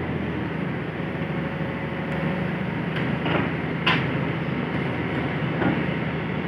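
Hitachi excavator's diesel engine running steadily, with several sharp metallic clanks, the loudest about four seconds in.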